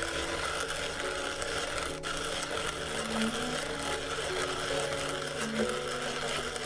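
Restored Fabbrica Nazionale coffee grinder grinding coffee, a steady grinding noise from its mechanism, with music playing underneath.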